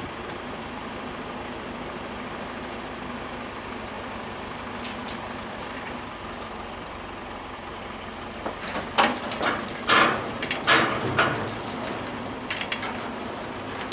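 Tractor engine running steadily while it pulls a car onto a trailer. About two-thirds of the way through, a quick run of loud knocks and scrapes rings out.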